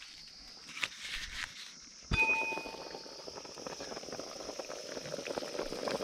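A sharp metal clink about two seconds in that rings briefly, then a pot of pork curry bubbling and sizzling, growing louder toward the end, over a steady high hiss.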